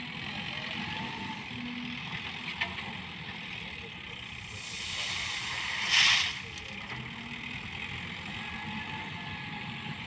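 A vehicle engine idling steadily, with a rushing hiss that swells about four and a half seconds in and peaks sharply around six seconds before dropping away.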